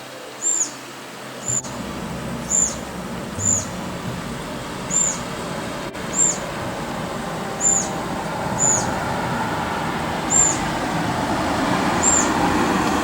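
Brown-eared bulbul calling: short, very high-pitched hooked notes repeated about once a second, some eleven in all, over a steady background rush that grows louder near the end.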